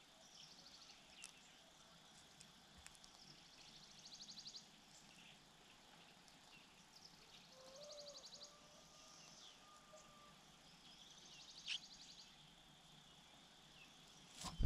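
Faint outdoor ambience: a small animal's high, rapid trill repeats about every three seconds, with a faint short whistle and a couple of light clicks.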